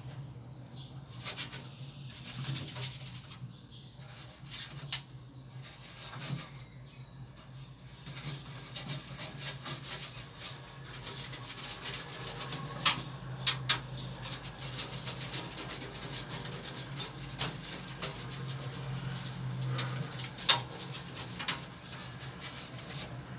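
A brush scrubbing soapy parts of a window air conditioner in irregular scratchy strokes, with a few sharp clicks or knocks along the way. A steady low hum runs underneath.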